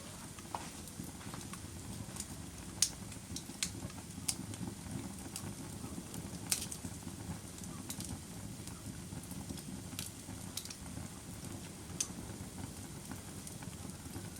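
Bonfire burning with a steady low rumble, and sharp wood crackles and pops scattered irregularly, about a dozen of them, the loudest nearly three seconds in.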